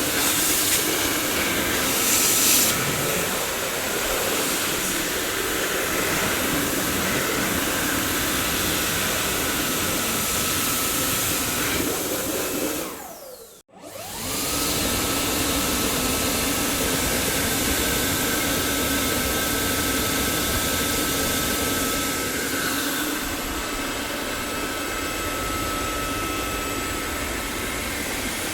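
Dyson vacuum cleaner motor running with a steady rush of air and a high whine. About halfway through it winds down and cuts out for a moment, then starts again, the whine rising and levelling off as the motor comes back up to speed.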